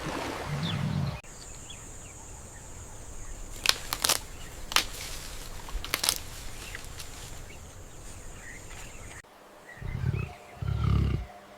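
Low, deep wild-animal calls at the start and again near the end. In between, a steady high-pitched hiss with a few sharp clicks.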